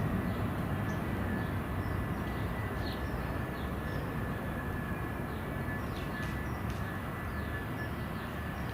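Commuter train rolling by with a steady low rumble of wheels on rail and a thin, steady high tone above it. Birds chirp in short notes throughout.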